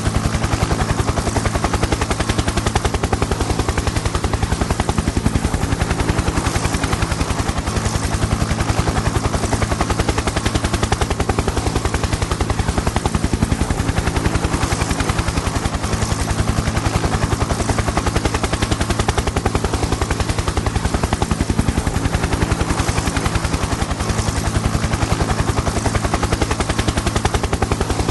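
Helicopter in flight, its rotor blades chopping in a fast, even beat over a steady engine hum.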